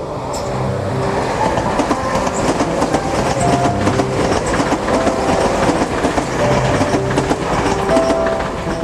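Electric train running past, its wheels clattering rapidly over the rail joints, with background music playing underneath.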